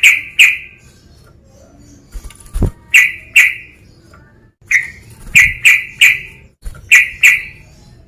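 Male yellow-vented bulbul (trucukan) calling: short, loud, ringing notes in quick pairs and a run of four, with gaps between the groups. A dull low thump sounds between them, near the middle.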